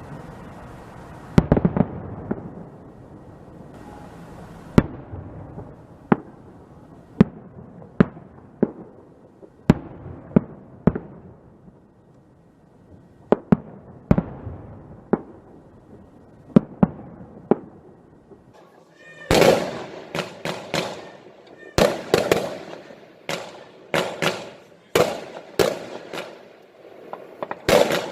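Fireworks going off: a run of sharp single bangs, roughly one a second, then about two-thirds of the way through a denser, louder volley of bursts with crackling tails.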